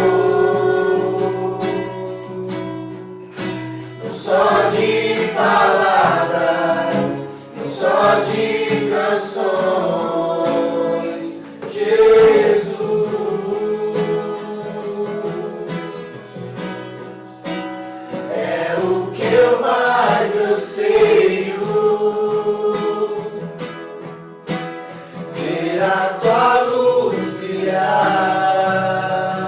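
Several voices singing a worship song together to a strummed acoustic guitar, in long held phrases.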